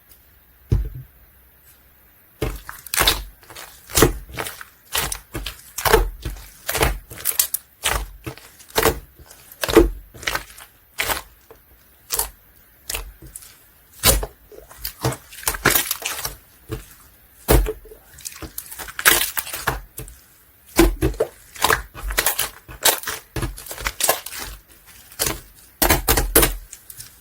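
Clear slime being pressed and worked by hand, giving a string of sharp pops and clicks, roughly one or two a second, after a quiet start.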